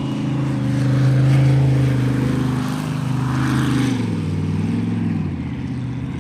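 Jet sprint boat engine running hard through the course, its note held steady, then dropping about four seconds in, with a brief rise and fall about a second later as the throttle changes through the turns.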